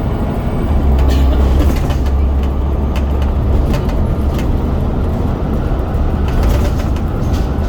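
Scania DC9 9.0-litre diesel engine of a double-decker bus running on the road, a deep steady rumble that grows stronger about a second in and eases a few seconds later, with scattered clicks and rattles from the bodywork.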